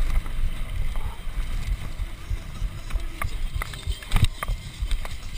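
Mountain bike rattling and knocking over rough ground, with wind rumbling on the onboard camera's microphone.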